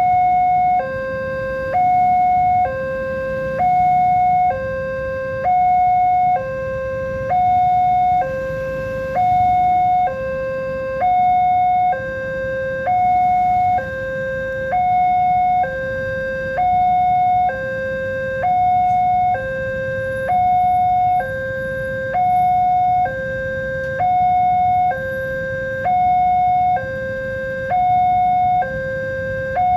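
Electronic level-crossing warning alarm sounding an even two-tone alternation, a higher tone then a lower one, each held under a second and repeating steadily, the signal that a train is approaching and the barriers are down. A low rumble runs underneath.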